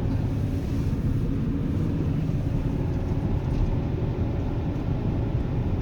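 Steady low road and engine rumble of a car being driven, heard from inside its cabin.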